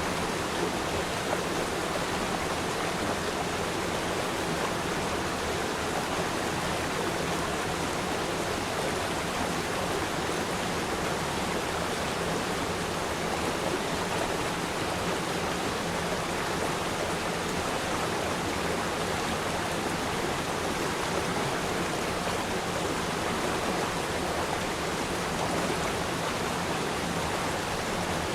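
River stream flowing: a steady, even rush of running water.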